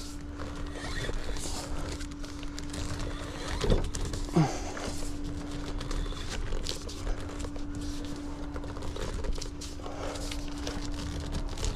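A man breathing hard with a short falling exhale about four seconds in, from the effort of hand-turning a truck's steering, over a steady hum and low rumble.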